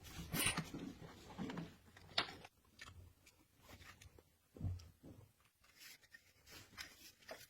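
Irregular handling noises: short clicks, scrapes and rustles, with a dull thump about four and a half seconds in.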